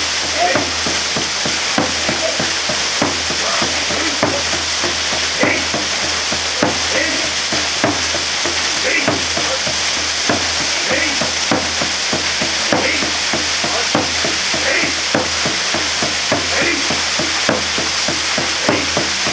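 Waterfall pouring and splashing steadily, a dense rush of water broken by many small sharp splashes.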